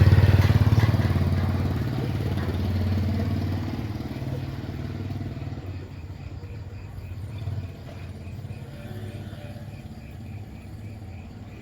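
A motor vehicle's engine running close by, loud at first and fading away over about six seconds. Then crickets chirping steadily, about two to three chirps a second.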